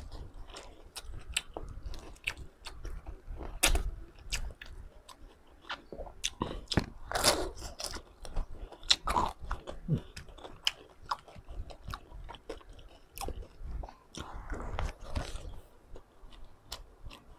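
Close-up chewing and crunching of crispy deep-fried pork pata, a dense run of sharp crackles as the crispy skin breaks between the teeth, with a few louder wet chewing bursts along the way.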